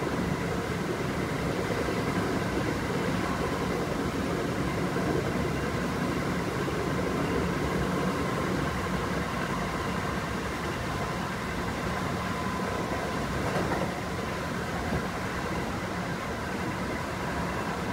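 Kintetsu 5800 series electric train heard from inside the passenger car while running at speed: a steady rumble of wheels on rail and car body, with a faint steady whine over it.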